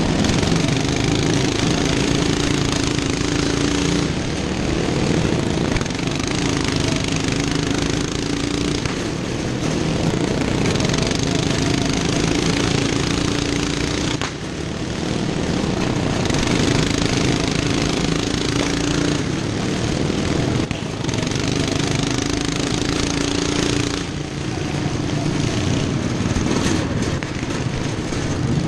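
Racing lawn mower engines running loud and rough, the engine tone coming and going every few seconds, with brief dips about 14 and 24 seconds in.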